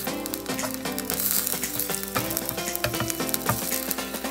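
Chopped green onions sizzling and crackling in hot oil in a small stainless-steel saucepan as a wooden spatula stirs them.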